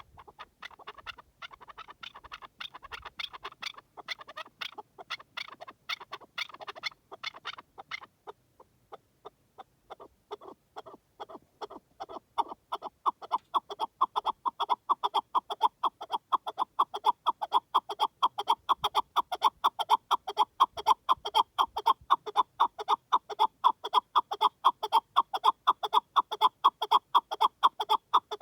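Partridge calling in a long rapid series of short repeated notes. The notes are fainter and more irregular for the first several seconds, break off briefly, then pick up again about ten seconds in as a steady, louder run.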